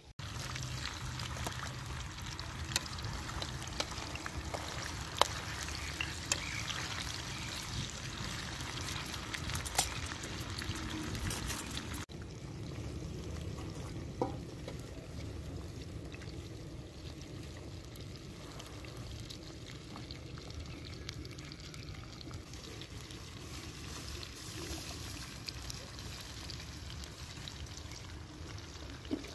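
Whole frogs frying in hot oil in a pan over a wood fire: a steady frying hiss with scattered sharp pops, most of them in the first half.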